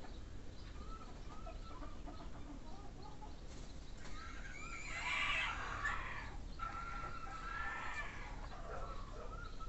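Birds calling: short clucking and chirping calls throughout, with a louder, harsher call about five seconds in and a longer held call a little later.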